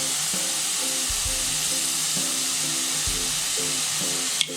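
Hot oil sizzling steadily as food fries, over background music with a repeating melody and bass beat. The sizzle cuts off near the end.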